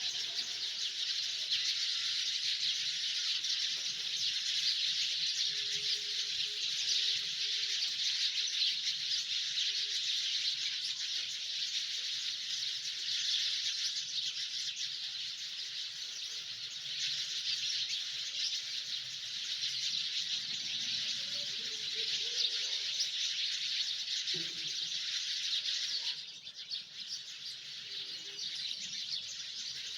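A dense chorus of many birds chirping at once, a continuous overlapping chatter. It thins and gets quieter about four seconds before the end.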